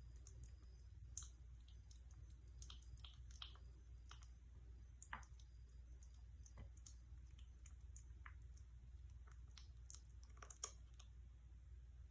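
Faint, irregular small clicks and ticks, a few a second and unevenly spaced, over a low steady hum; three of them, about a second, five seconds and ten and a half seconds in, stand out louder.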